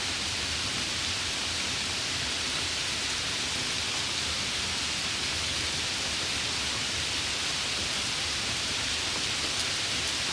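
Steady rain falling, an even hiss of many drops with no breaks or single loud drops standing out.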